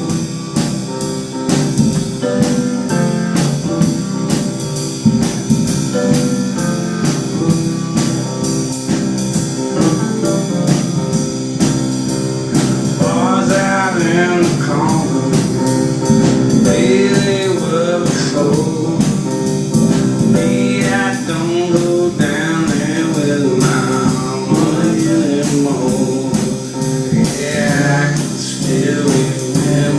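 Live song played on piano with a steady rhythm; a man's singing voice comes in about 13 seconds in.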